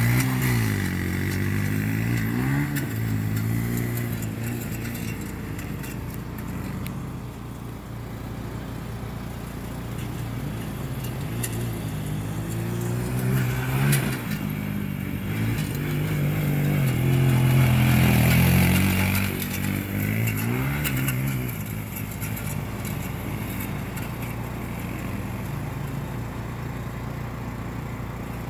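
Engines of small off-road vehicles revving and accelerating, the pitch climbing and dropping again and again through the gears. Loudest at the very start and again about two-thirds of the way in.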